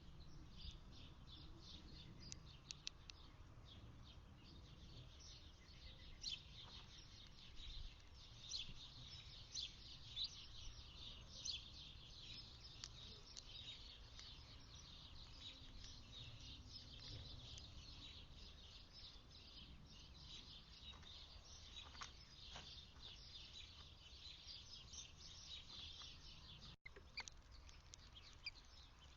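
Small birds chirping at a feeder: many short, high chirps and calls, overlapping and continuous, over a faint low background rumble.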